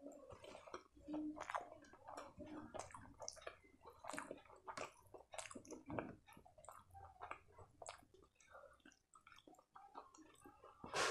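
Close-miked wet chewing and mouth sounds, with soft squishing as fingers mash and gather rice mixed with sarson ka saag on a plate. The sound is a stream of irregular small clicks and smacks, with a louder burst right at the end.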